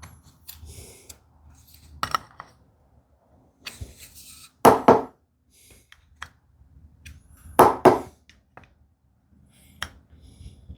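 Several sharp wooden knocks and lighter clicks on a workbench, the two loudest about five and eight seconds in. This is a marking gauge being tapped on the bench to nudge its setting, which the woodworker finds more accurate than using its screw adjustment.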